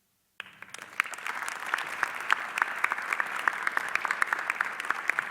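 Audience applauding: dense, steady clapping that starts abruptly after a brief silence about half a second in.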